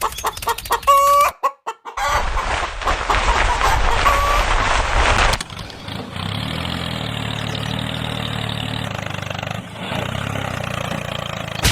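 Chickens clucking in the first second, then after a short break a noisy stretch with another faint cluck. From about halfway through, a steady low hum of a small motor runs on.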